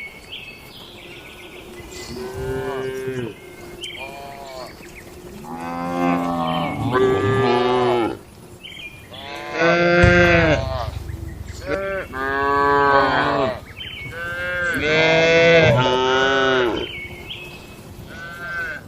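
Cattle mooing in a shed: a string of long moos from more than one animal, some overlapping, each call rising and then falling in pitch, the loudest about ten seconds in and again about fifteen seconds in.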